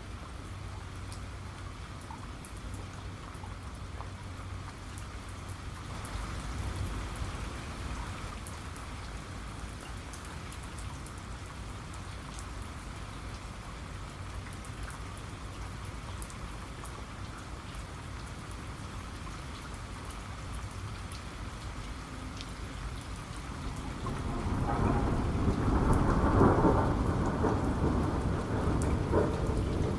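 Steady rain with scattered drips, and about three-quarters of the way through a long roll of thunder builds up and rumbles on to the end.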